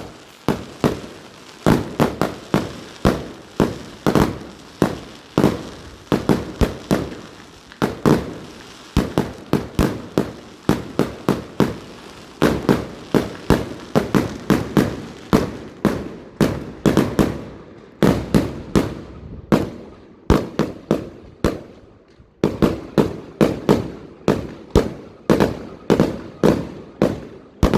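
Fireworks going off: a long run of sharp bangs, about two or three a second, each with a short echoing tail, with a couple of brief lulls in the second half.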